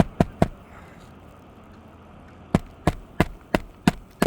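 Hammer driving roofing nails into a replacement 3-tab shingle: a quick run of strikes at the start, then after a pause about six more, roughly three a second.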